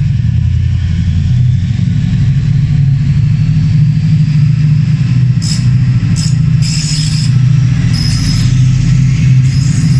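Class 68 diesel-electric locomotive's V16 diesel engine running hard and close by, a loud steady low throb. From about halfway in, several short high-pitched squeals with hiss cut in over it.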